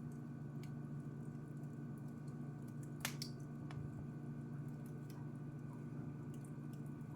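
Wood fire in a fireplace crackling, with scattered small pops and one louder pop about three seconds in, over a steady low hum.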